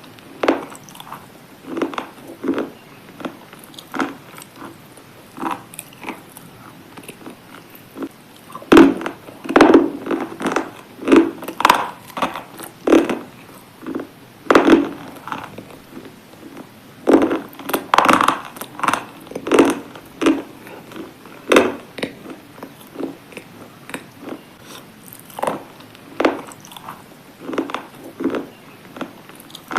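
Biting and chewing brittle slate pieces: irregular sharp crunches, with two dense, louder runs of bites in the middle.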